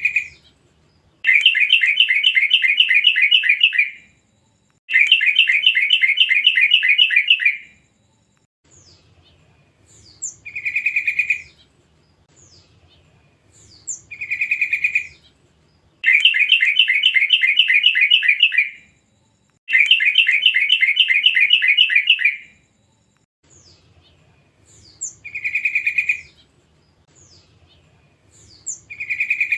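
Yellow-vented bulbuls calling: short bright notes alternate with pairs of long, fast chattering phrases of about three seconds each, repeating in a regular cycle.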